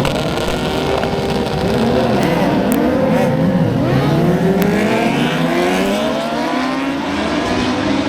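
Several superbike racing motorcycles running at high revs, their engine notes overlapping and rising and falling through gear changes. From about four seconds in, the pitch climbs as the bikes accelerate.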